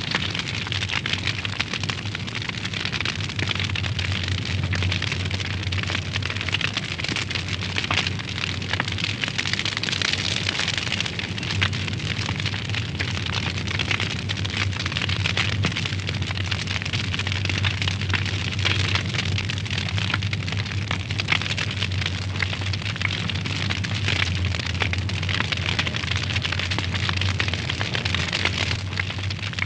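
Wood fire crackling in a fireplace: dense, irregular pops and crackles over a steady hiss of flames and a low, steady rumble.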